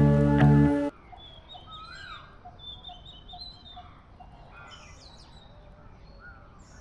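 Background song cutting off about a second in, then faint birds chirping: scattered short calls that rise and fall in pitch.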